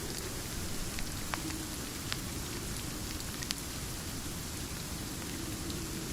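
Steady rain falling, an even hiss, with scattered sharp ticks of drops or fire crackles a few times a second.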